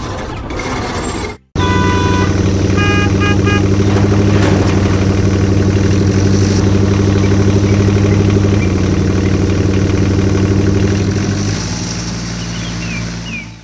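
Vehicle engine sound effect running steadily with a fast pulse for about ten seconds, then dropping lower and quieter near the end. A quick run of short horn toots sounds about three seconds in.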